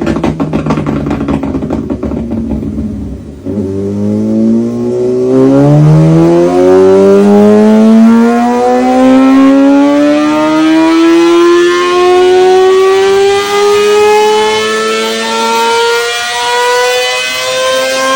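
Kawasaki ZX-6R inline-four running through an aftermarket exhaust: first a rough, low note with rapid crackling, then, after a sudden change about three seconds in, one long, unbroken pull with the pitch rising steadily for about fourteen seconds.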